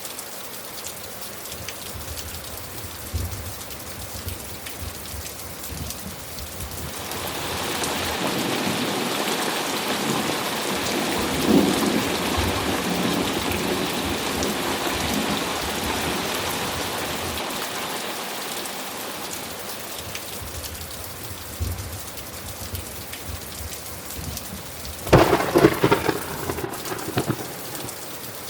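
Thunderstorm: steady rain falling, with a long rumble of thunder that swells from about seven seconds in, peaks, and fades away over about ten seconds. Near the end a sharp, crackling clap of thunder comes over the rain.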